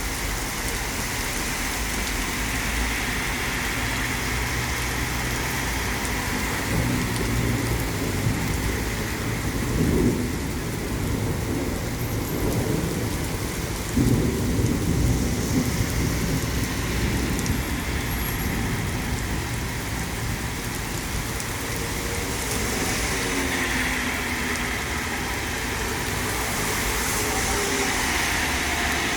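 Thunderstorm: steady rain with rumbling thunder, and two sharper, louder thunderclaps about ten and fourteen seconds in.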